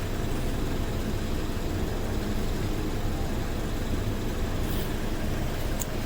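Steady low rumble of a running engine or similar machine, even throughout, with a faint click near the end.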